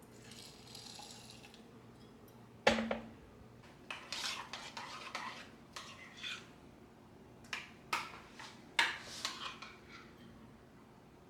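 Dishes and kitchenware being handled: a solid knock a few seconds in, then a run of clattering and scraping, and several sharp clinks near the end.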